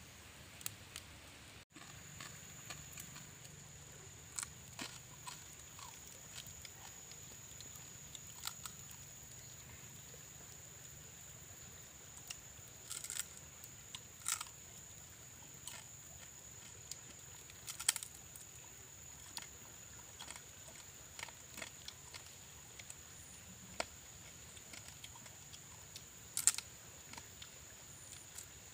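A person chewing roasted crab, crunching through the shell in irregular sharp cracks, a few of them louder.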